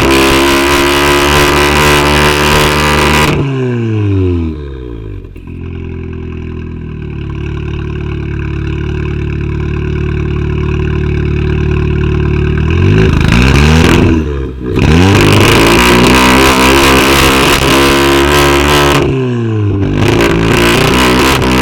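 Tuned car's engine revved hard and held at high revs, then falling to a steady idle for several seconds before being revved up again. It is held high again, with a quick drop and a fresh rev near the end.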